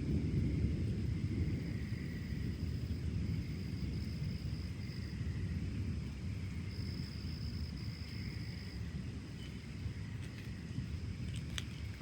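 Low rolling rumble of distant thunder, slowly fading, over steady high-pitched insect trilling. A few light clicks near the end.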